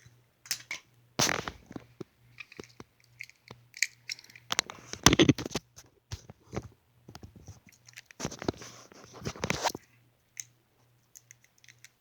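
Die-cast toy cars being handled and moved about: irregular clicks, scrapes and rustling, with three busier bursts about a second in, around five seconds and from about eight to ten seconds.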